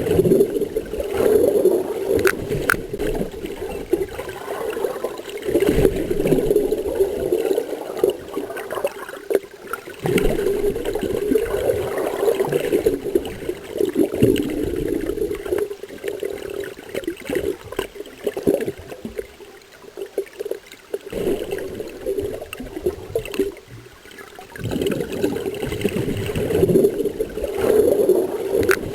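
Water gurgling and sloshing around a camera held in the sea, swelling and easing every few seconds.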